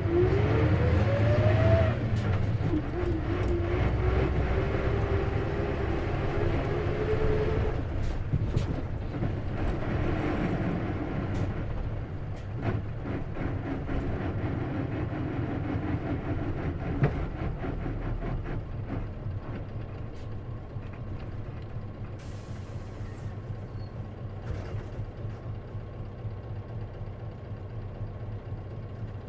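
Isuzu KC-LV380N manual-transmission city bus under way: the drivetrain runs with a whine that rises in pitch over the first two seconds and again more slowly until about eight seconds in, then the bus runs on more quietly. It has an abnormal noise that the owner suspects may be a symptom of its manual transmission. A short hiss of air comes about 22 seconds in.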